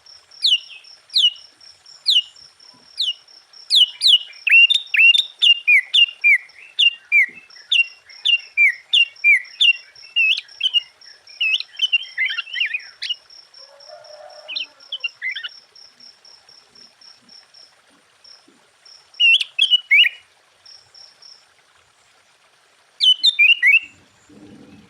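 Sooty-headed bulbul singing: a rapid run of short, bright, downward-slurred whistled notes, densest in the first half. It then breaks into pauses with two short bursts of notes near the end.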